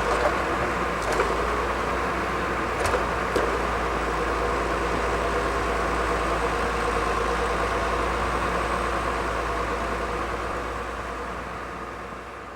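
A forestry machine's diesel engine running steadily, with a few sharp knocks in the first few seconds; the sound fades away near the end.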